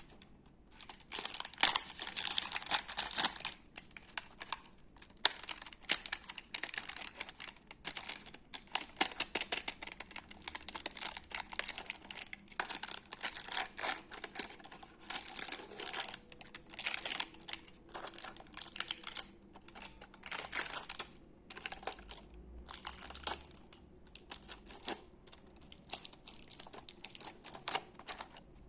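Close-miked crinkling and crunching of chocolates, biscuits and their wrappers, in irregular crackly bursts with short pauses between them.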